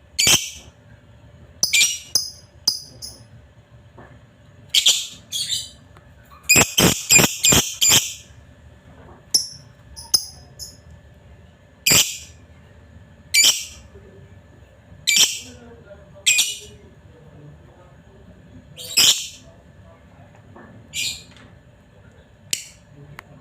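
Lovebird giving short, shrill chirping calls at irregular intervals, with a rapid burst of about five calls around the middle.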